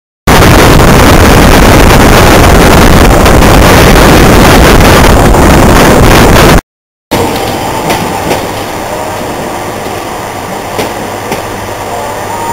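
Loud, overloading wind and rail noise from an open window of a diesel-hauled train running at speed. After a brief break it gives way to a much quieter steady rumble with a few light clicks as a passenger train rolls past a station platform.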